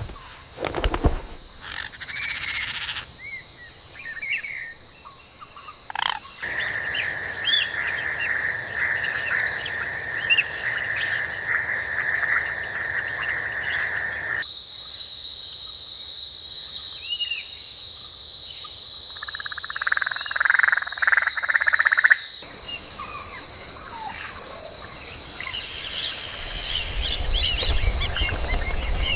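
Tropical rainforest ambience: insects keep up steady high-pitched drones while birds chirp and call over them, with frog-like calls mixed in. The soundscape changes abruptly several times, as if pieced together from different recordings, and a low rumble joins the dense chirping near the end.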